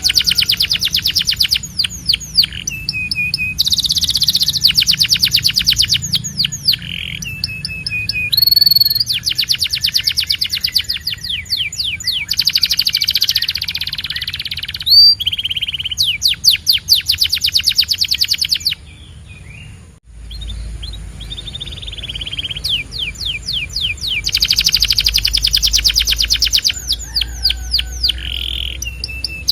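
Male canary singing: long phrases of rapid trills, rolls of quickly repeated notes, alternating with held and gliding whistled notes, with a brief pause about two-thirds of the way through.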